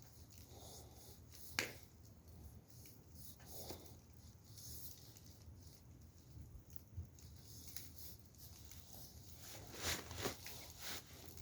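Wood fire crackling, with irregular clicks and small pops, one sharper pop about a second and a half in and a cluster of pops near the end.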